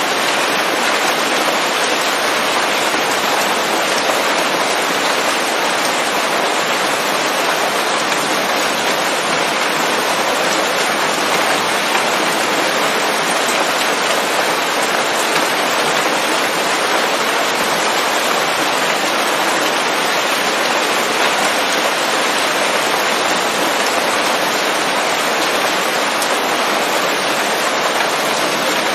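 Steady rain falling on leaves, a dense, even hiss of drops without thunder.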